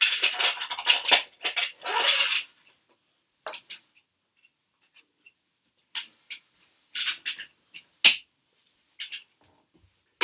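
Plastic Duplo pieces clattering and clicking as they are handled and rummaged through: a dense run of rattling for the first couple of seconds, then scattered single clicks and knocks.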